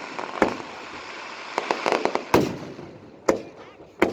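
Fireworks going off: a series of sharp bangs over a steady background crackle, with a cluster of quicker cracks about one and a half to two seconds in. The loudest bang comes about two and a half seconds in.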